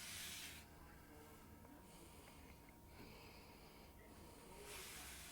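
Near silence: faint room tone with two soft hisses, one at the start and one near the end.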